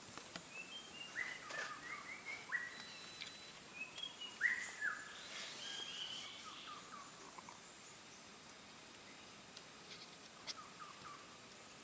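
Birds chirping in short, downward-sliding calls, busiest over the first seven seconds and again briefly near the end, over a faint steady high hum.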